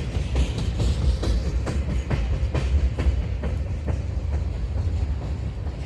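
Manifest freight train's cars rolling past with a steady low rumble, the wheels clicking over rail joints several times a second. The sound eases off slightly toward the end.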